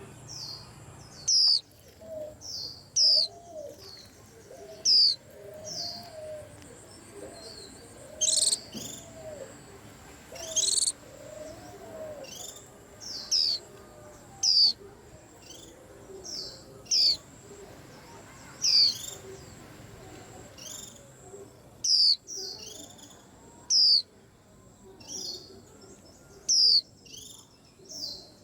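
White-eye (vành khuyên) giving short, loud, high chirps that fall in pitch, one every second or two, with quicker pairs now and then. Under them runs a faint steady high tone, and there is soft lower warbling in the first half.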